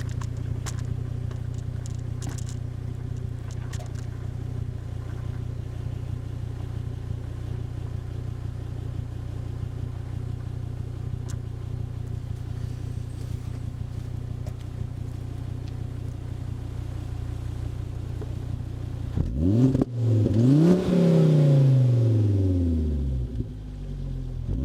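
Volvo V70 R's turbocharged five-cylinder engine idling steadily through a stainless-steel TME cat-back exhaust. About 19 seconds in it is revved up and let fall back a few times.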